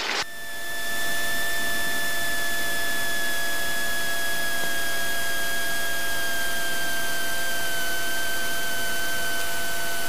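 Steady hiss of Cessna 182 Skylane cockpit noise, building over the first second, with a thin high whine that slowly drops in pitch.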